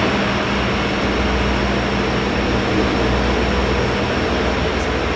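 JR Hokkaido H100 DECMO diesel-electric railcar's engine running steadily, a constant low hum.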